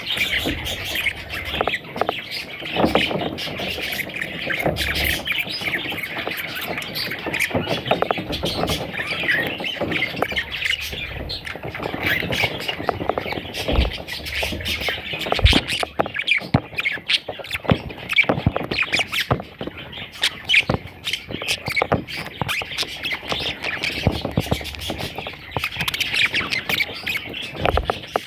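Budgerigars chattering and squawking: a dense, continuous run of many short, overlapping calls.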